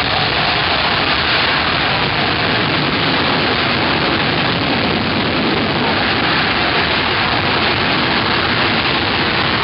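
Loud, steady jet engine noise from the C-17 Globemaster III's four turbofan engines, an even rushing sound with no break.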